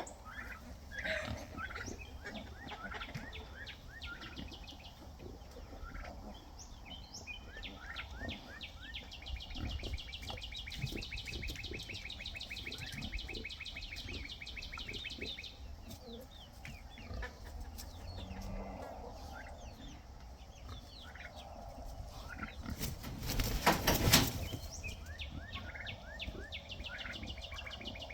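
Farmyard animals calling around a pig pen: many short, repeated high calls and clucking-like sounds, with a brief, loud rustling burst a few seconds before the end.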